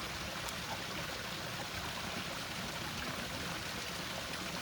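Water flowing steadily, an even rushing without breaks.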